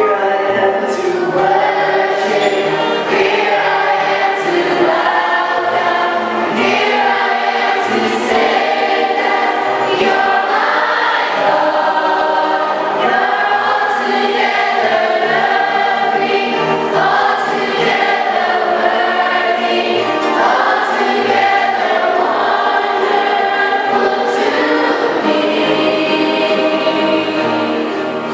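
Choir singing a gospel hymn, many voices holding long notes together at a steady loud level.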